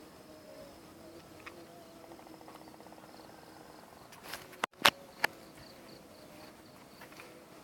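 A strange steady droning call from a tree, with a fast buzzing pulse for a second or two before the middle. Shortly after the middle, three sharp clicks are the loudest sounds.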